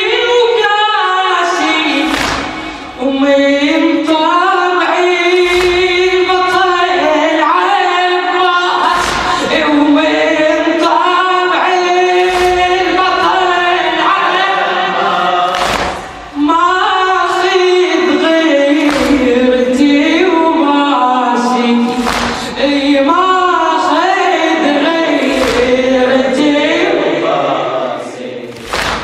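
A cappella Shia religious chant (latmiyya) led by a male reciter, with voices joining in chorus. A sharp beat keeps time about every three and a half seconds, and there are short pauses for breath about three, sixteen and twenty-eight seconds in.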